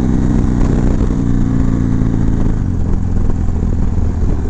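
V-twin motorcycle engine running through a Bassani True Dual exhaust, a steady note with a hiss above it; about two and a half seconds in, the steady note breaks up and goes rougher.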